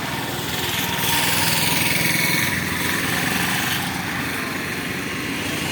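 A small engine running at close range. It grows louder with a rushing hiss for a couple of seconds through the middle, then eases back.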